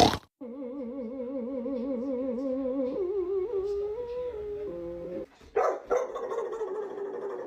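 Dog making an unusual drawn-out vocal sound, a howl-like 'singing' with a fast regular wobble in pitch, then stepping between a few held notes. After a short break about five seconds in, it gives rougher yips and barks with sharp starts.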